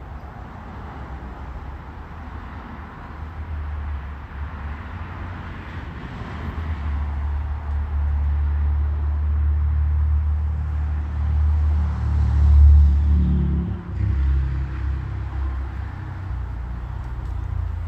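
A car passing by on the road, its engine and tyre noise swelling to a peak about twelve seconds in and then fading, over a low steady rumble.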